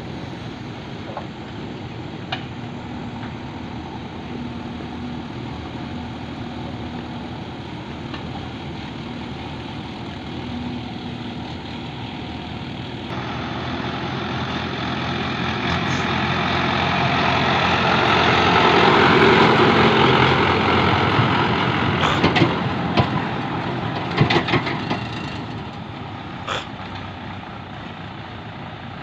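Heavy diesel machinery running: a steady engine drone, then an engine growing louder to a peak about two-thirds of the way through and easing off, followed by a few sharp metallic knocks.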